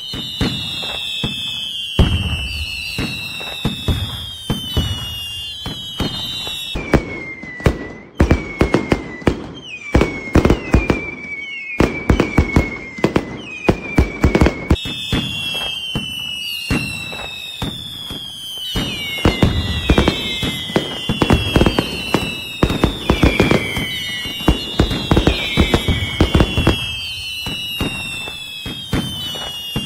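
Fireworks going off in quick succession: many sharp bangs and crackles, with whistles that repeatedly fall in pitch over a second or two each.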